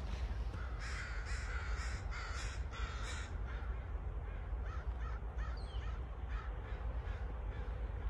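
A bird calling repeatedly, a run of about five short calls in the first few seconds followed by several fainter ones, over a steady low rumble.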